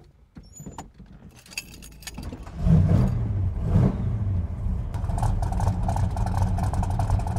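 Keys jangling and clicking, then a car engine starts about two and a half seconds in and keeps running steadily.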